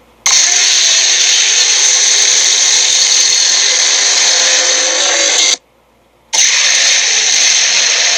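Film sound effect of the tyrannosaur Sharptooth: a long, loud, harsh rasping snarl with no clear pitch, cut off abruptly for under a second about five and a half seconds in, then starting again.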